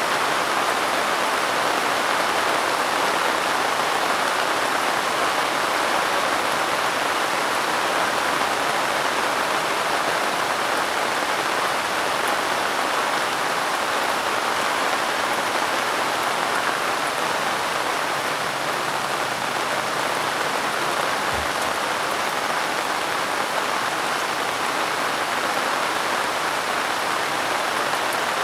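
Steady rain falling, a continuous even patter with no letup. A faint low thud sounds once, about three quarters of the way through.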